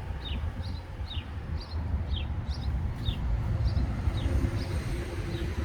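A bird calling over and over in short, high chirps that slide downward, about two a second, stopping shortly before the end. Under the chirps runs a steady low rumble.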